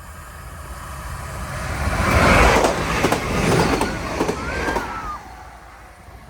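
A train passing close by: its rumble and rush build over about two seconds, peak, then fall away suddenly about five seconds in as it goes past.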